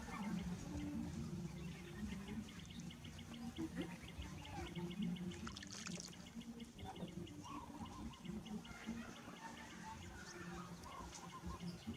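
Water pouring and trickling during a baby monkey's bath, mixed with short high chirping calls.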